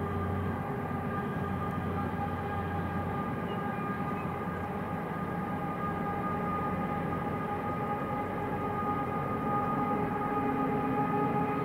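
Train running on the line: a steady rumble of wheels on rail with a constant whine of several held tones, a low hum dropping away about three seconds in, and the sound swelling slightly near the end.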